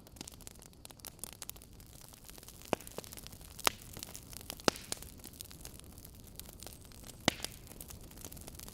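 Wood logs burning in a fireplace, crackling: a steady run of small ticks and snaps over a low hiss, with four louder, sharper pops spread through the middle.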